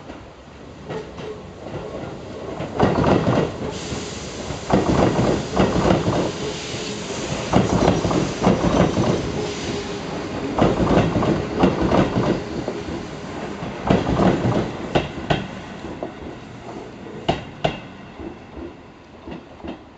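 Keio 6000 series electric train rolling slowly past, its wheels clacking over the rail joints in repeated clusters of sharp strikes over a steady rumble, fading as the last cars go by near the end.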